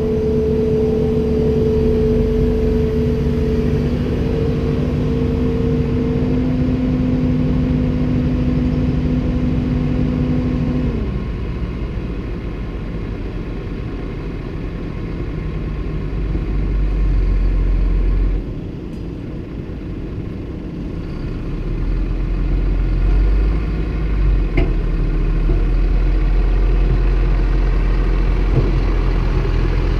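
Komatsu PC290-10 excavator at work, its diesel engine running with a steady whine over it that stops about a third of the way in. The engine eases off about halfway through and picks up again, with one sharp click near the end.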